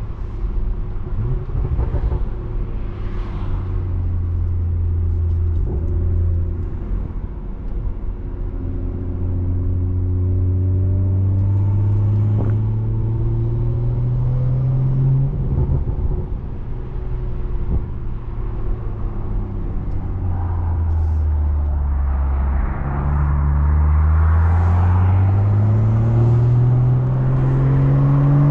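BMW 340i's turbocharged straight-six with a straight-piped exhaust, pulling under load through the gears. The engine pitch climbs steadily, drops at a shift about fifteen seconds in, then climbs again and is loudest near the end.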